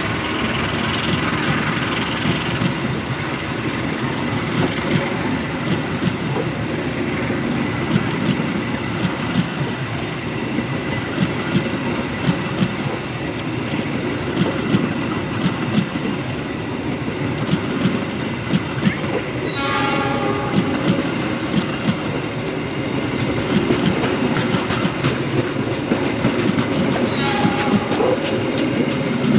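A long rake of passenger coaches rolling past, steel wheels clacking over the rail joints in a steady rhythm under a continuous rumble. A horn sounds briefly about twenty seconds in and again near the end.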